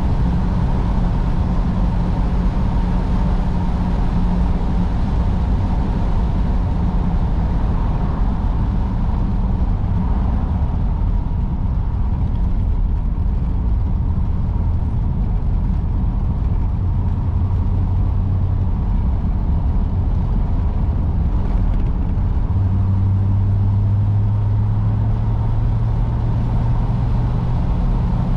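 A car engine and road noise while driving: a steady, loud drone with low engine tones that shift slightly, one growing stronger and rising a little in pitch about three-quarters of the way through. The car is a 1953 Oldsmobile Super 88 with a Rocket V8.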